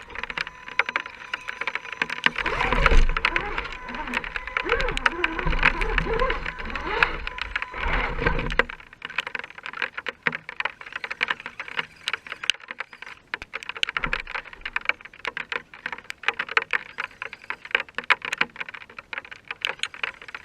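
Rain falling, heard as dense, irregular ticking of drops striking close to the microphone. A low rumble with wavering tones lies under it and stops a little before halfway.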